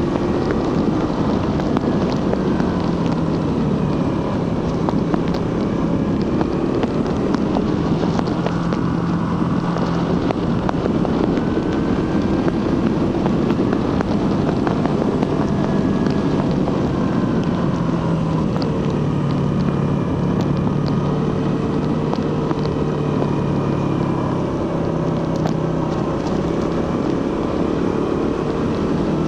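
Suzuki GSX-R150's 150 cc single-cylinder engine through its stock exhaust, ridden at speed, its note rising and falling as the throttle changes. Wind rushes over the microphone.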